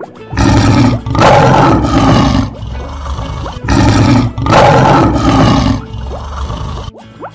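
A lion roar sound effect, heard twice, each roar about two seconds long with a brief break in the middle.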